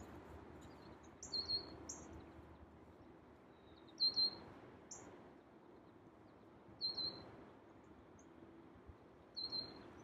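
A bird calling with short, high chirps, four times, about every two and a half to three seconds, over a steady background hiss.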